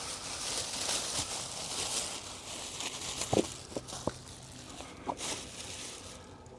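Plastic masking sheeting rustling and crinkling as it is handled, with a few light taps.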